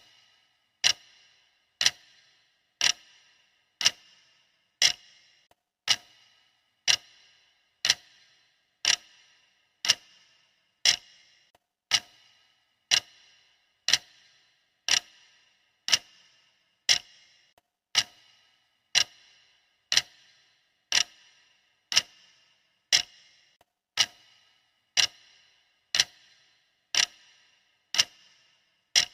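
Clock ticking steadily, about one sharp tick a second, each dying away quickly: the countdown timer's ticking sound.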